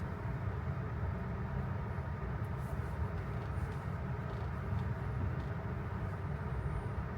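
Steady road and tyre noise of a car driving on wet pavement, heard from inside the cabin of a Tesla electric car.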